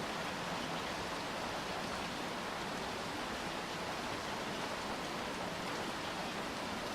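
Steady rain falling, an even hiss of rain on hard surfaces with no single drops standing out.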